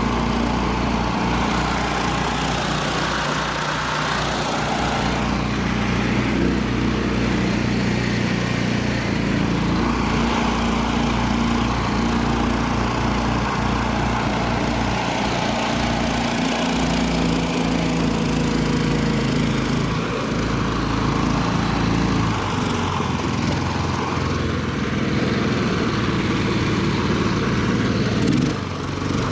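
Karakat's engine running steadily as it drives, its pitch shifting up and down with the throttle, with a brief dip just before the end.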